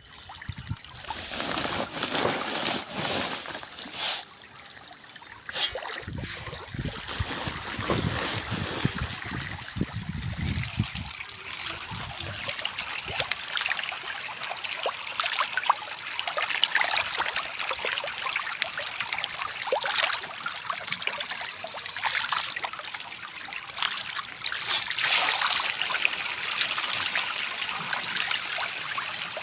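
Water trickling and splashing steadily, with a few sharper splashes about four, five and a half and twenty-five seconds in. A low rumble runs under it from about six to eleven seconds in.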